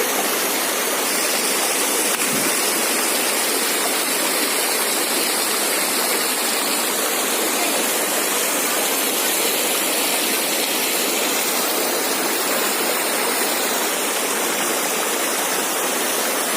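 Waterfall rushing steadily into its pool, a constant, even roar of falling water.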